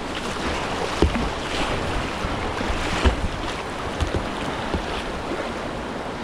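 River water rushing and splashing around a kayak in whitewater, a steady wash with a few dull low knocks.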